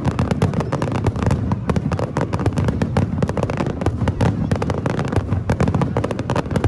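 Aerial firework shells bursting in a dense, continuous barrage: many sharp bangs a second overlapping into a steady low rumble.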